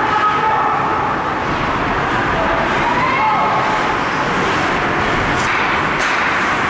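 Steady rink noise at an ice hockey game, with faint distant shouting voices and a few short sharp knocks, such as sticks or a puck striking, near the end.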